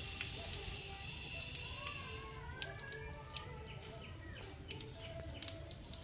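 Birds chirping: short high chirps throughout, with a few gliding calls between about two and three and a half seconds in.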